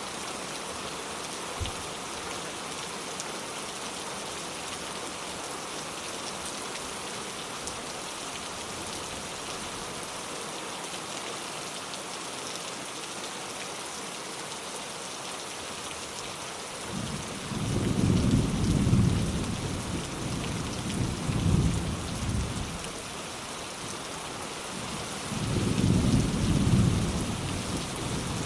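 Steady rain with a light thunderstorm: an even hiss of falling rain throughout. Rolling thunder rumbles in from just past halfway, in three low waves.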